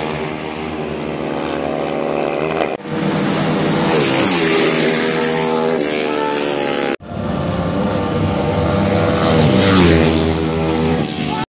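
Honda GL and Honda Tiger motorcycles in a drag race, their single-cylinder four-stroke engines revving hard and accelerating, the pitch climbing again and again as they pull away. The sound breaks off sharply twice and stops abruptly just before the end.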